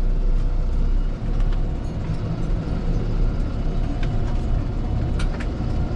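Fendt 412 tractor's diesel engine running steadily at a low rumble, with a few sharp clicks or knocks about four and five seconds in.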